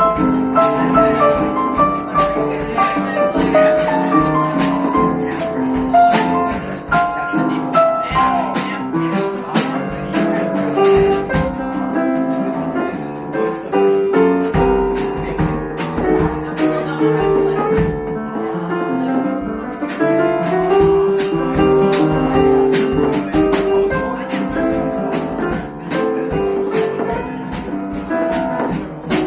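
Live jazz band playing: piano chords and melody over a steady drum beat with light, evenly ticking cymbals.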